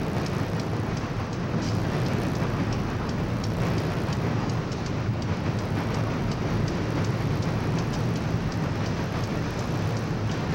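Freight cars of a CSX train rolling across a steel girder railroad bridge: a steady low rumble of wheels on rail with light clicking a few times a second.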